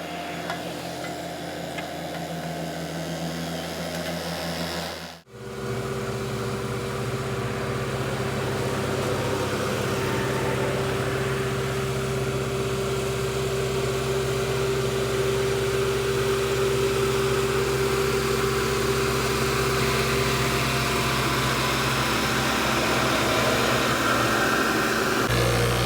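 Heavy earthmoving machine's diesel engine running steadily. About five seconds in, the sound breaks off for a moment and another steady engine hum with a clear droning tone takes over.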